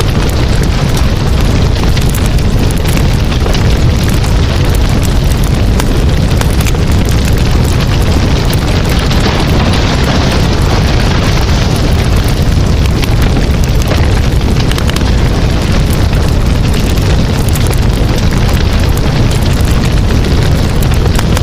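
Campfire burning: a loud, steady low rumble with crackling, and a hiss that swells briefly about halfway through.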